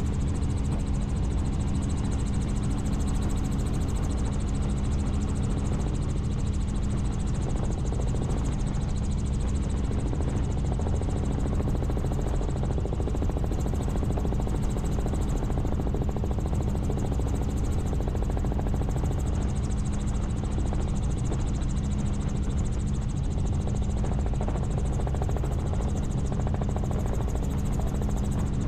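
Helicopter in steady flight: the rotor and engine drone on evenly with a strong, steady hum.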